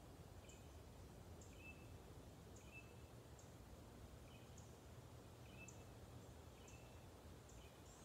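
Near silence, with faint short bird chirps in two pitches repeating every half second to a second over a faint, steady low rumble.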